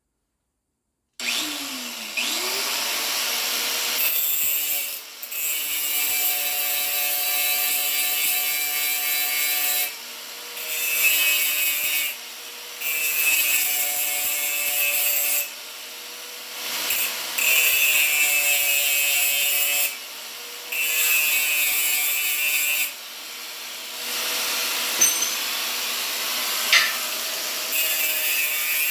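A corded electric power tool cutting steel plate: the motor spins up about a second in, then runs in repeated spells of a few seconds with short breaks between them, a steady whine under a bright hiss of metal being cut.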